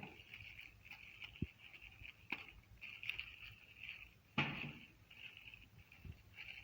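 A few scattered knocks, the loudest about four and a half seconds in, over a faint high hiss that comes and goes.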